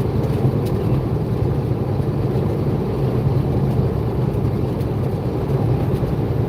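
Semi-truck travelling on the highway: a steady, low diesel engine drone mixed with road noise, with no change in speed or pitch.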